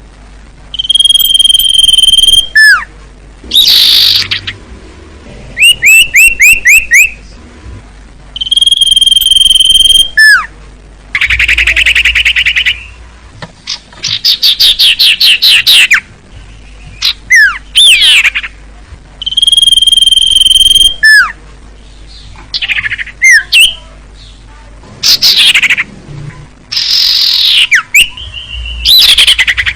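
Bird-tutoring (masteran) recording of sirtu and common iora (cipoh) calls. Phrases come one after another with brief gaps: a held high whistle, runs of quick falling notes, and rapid trills.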